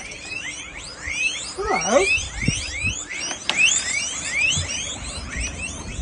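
A chorus of small rodents squeaking for food at feeding time: many short, high chirps overlapping without a break, with one lower gliding call about two seconds in.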